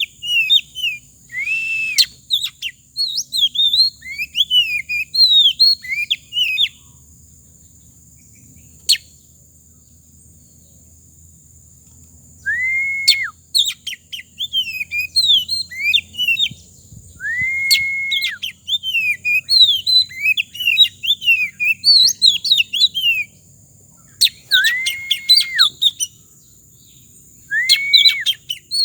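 A songbird singing in bursts of quick twittering chirps, broken by a repeated drawn-out whistle about a second long that rises, holds and drops. It falls silent for several seconds partway through, then resumes.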